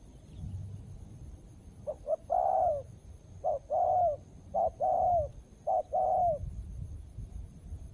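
Spotted dove cooing: four phrases in a row, each a short note followed by a longer drawn note that falls at its end.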